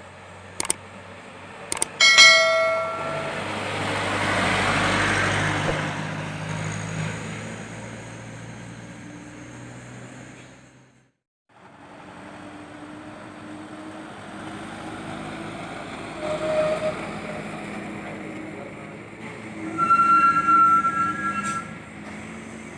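Heavy vehicles passing on a road, two in turn, each rising and fading. Each pass carries a short, loud, pitched blare: one about two seconds in, the other near the end.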